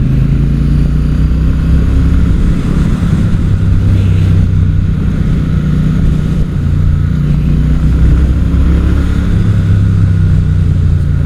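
Motorcycle engine pulling steadily at road speed, mixed with wind rush, heard from the rider's helmet microphone. The sound briefly drops about two-thirds of the way in, then picks up again.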